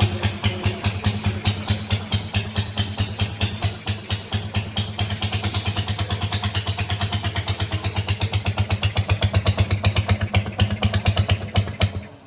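1915 Caille-built Hiawatha rowboat motor, a single-cylinder two-stroke with buzz-coil ignition, running with its exhaust cutout open, a steady train of firing beats. The beats pick up pace in the second half, then the engine stops near the end.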